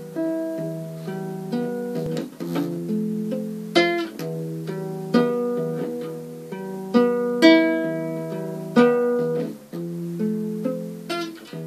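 Instrumental song intro on guitar: single picked notes ringing and decaying, with a sharper strummed chord every one and a half to two seconds.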